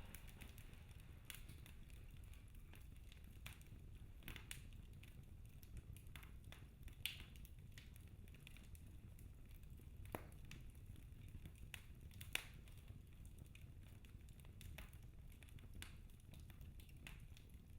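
Wood fire burning in a fireplace, crackling with scattered sharp pops at irregular intervals over a faint low rumble. Louder pops come about 7, 10 and 12 seconds in.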